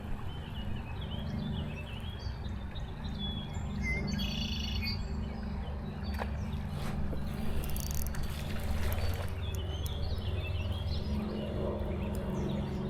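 Wild songbirds chirping now and then, with a short, stacked call about four seconds in, over a steady low rumble.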